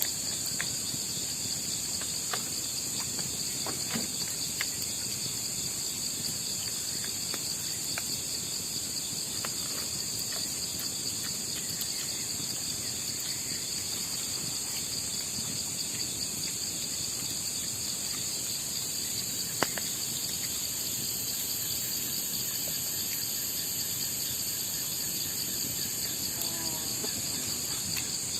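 Steady, high-pitched chorus of night insects such as crickets, with a single sharp click about twenty seconds in.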